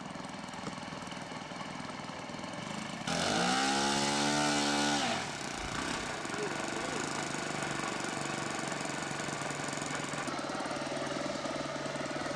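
Radio-controlled model airplane engine running, with a louder burst about three seconds in that rises in pitch, holds for about two seconds and drops away, then a steady engine buzz with a fast pulsing beat.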